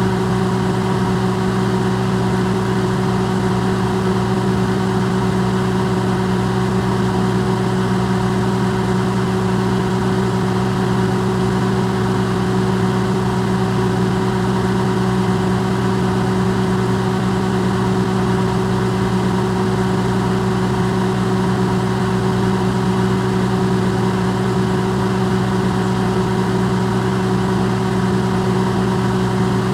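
Electrolux microwave oven running, its sound amplified: a loud, steady hum with a low drone and a few fainter higher tones over an even hiss, unchanging throughout.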